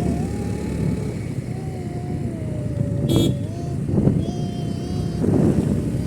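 Motor vehicle running on the move with a steady low rumble and a wavering whine. A brief high-pitched sound comes about three seconds in, and another shortly after.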